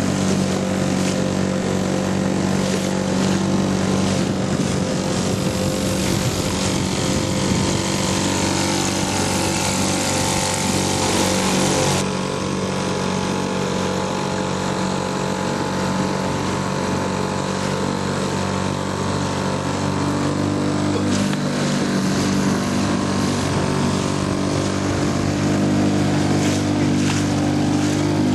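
British Seagull two-stroke outboard motor running steadily under way, with a steady hiss over it that drops away abruptly about twelve seconds in.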